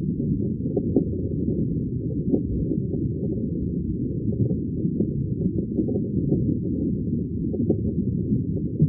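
Muffled aquarium bubbling: a steady low, dull rumble of water and bubbles with small irregular pops scattered through it.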